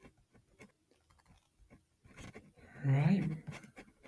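Faint scattered small clicks and taps close to the microphone, then a man says "Right" about three seconds in.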